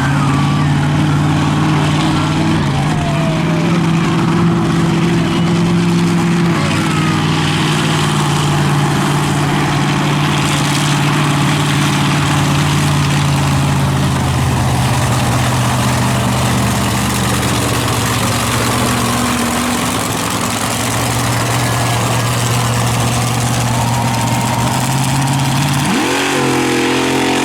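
Monster truck's big-block engine running at a steady, held speed, its pitch shifting in steps, then revving up sharply near the end.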